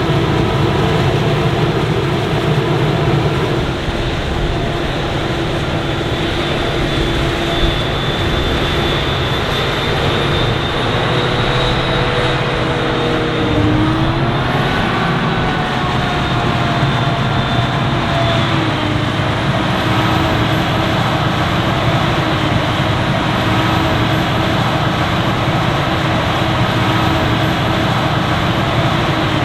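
Large diesel farm machinery running steadily under load, with the engine pitch dipping and climbing back about halfway through.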